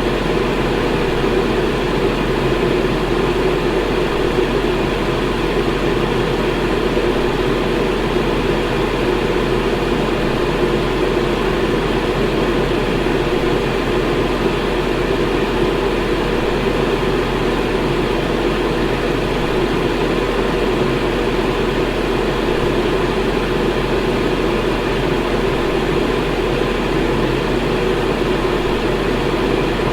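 Electric fan running steadily: an unbroken rush of moving air with a constant low hum underneath, unchanging in level.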